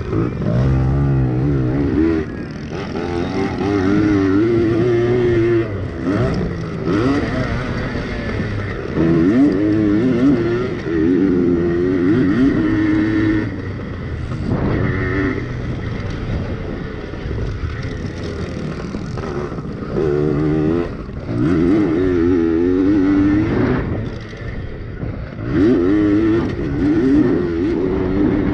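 Yamaha PW80 two-stroke pit bike engines revving hard and dropping back again and again as the bikes race around a short track. The pitch keeps rising and falling with louder surges every few seconds.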